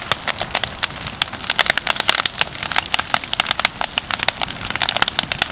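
Large bonfire of burning branches crackling and popping: a dense, irregular run of sharp pops and snaps over a steady hiss of flames.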